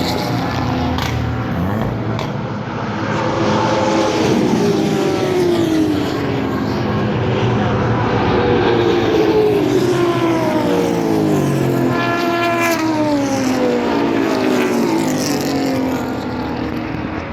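Several race cars going past at speed on a circuit, engines at high revs overlapping, each dropping in pitch as it passes; the loudest and closest pass comes about twelve seconds in.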